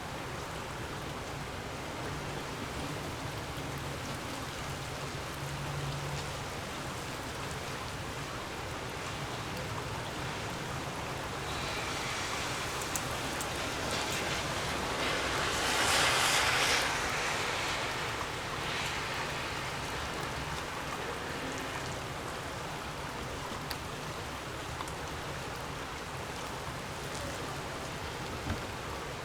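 Gusty wind blowing with a steady rushing noise, a stronger gust swelling up about halfway through and dying away a few seconds later.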